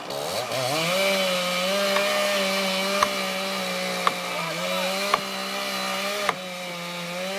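Two-stroke chainsaw revving up over the first second, then held at high throttle with its pitch sagging briefly a couple of times, as in cutting into the trunk. Sharp ticks come about once a second.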